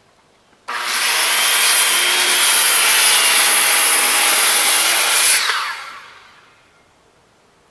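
Circular saw cutting through wood, starting abruptly a little under a second in and running steadily for about five seconds, then the blade spins down as the cut ends.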